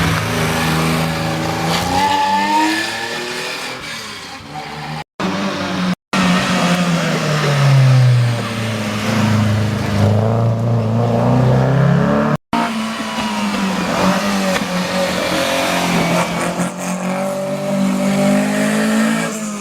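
Historic rally cars driven hard on a stage, engines revving up and down through the gears, with a long fall and rise in pitch around the middle. The sound breaks off abruptly three times.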